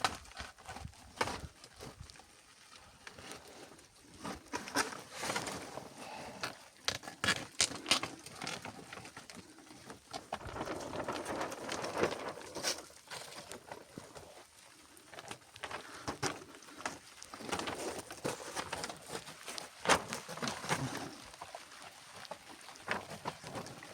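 Irregular rustling with scattered clicks and knocks, coming in bursts, as of things being handled.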